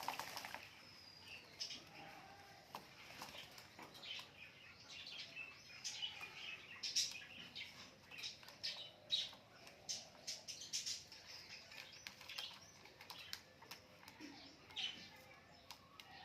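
Birds chirping in many short, scattered calls, with occasional wing flaps.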